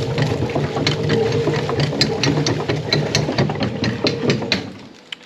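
Barn manure transporter running: a steady mechanical hum with many rapid clicks and clanks, fading out near the end. It works normally and starts without trouble.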